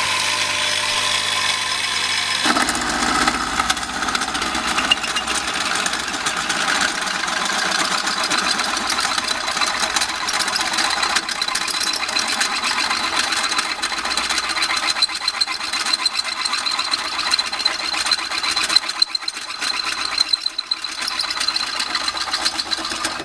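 Heavy hand-held electric drill with a 0.83 kW three-phase induction motor and two-stage reduction gearbox, running under load as it enlarges a hole from 19 to 25 mm. It gives a steady high whine over cutting noise, and the cutting noise grows fuller about two and a half seconds in.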